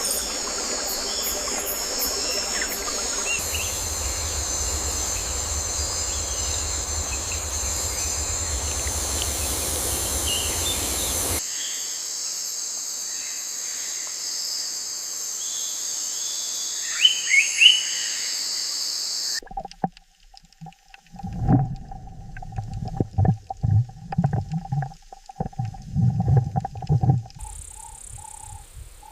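Steady chorus of insects, with a few short bird chirps a little after the middle. About two-thirds of the way through it cuts suddenly to irregular low animal calls over a thin steady tone.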